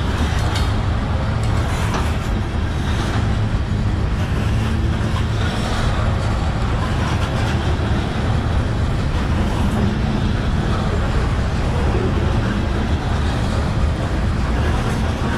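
Covered hopper cars of a grain train rolling slowly past: a steady low rumble of steel wheels on rail, with a few faint clacks.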